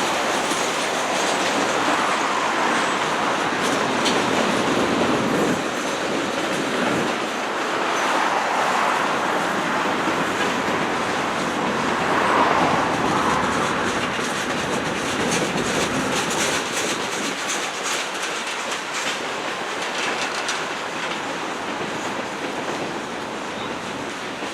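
Train cars rolling past with steady wheel clatter over the rail joints, swelling and easing every few seconds, with faint high wheel squeal.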